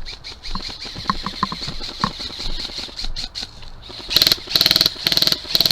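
Airsoft electric gun firing full-auto in short bursts of rapid clicks, about four bursts in the last second and a half, after a few scattered clicks and knocks.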